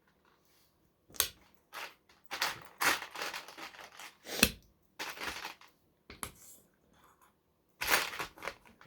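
Small plastic LEGO pieces clattering and clicking as they are handled and sorted, in irregular bursts with brief pauses, and one sharper knock about halfway through.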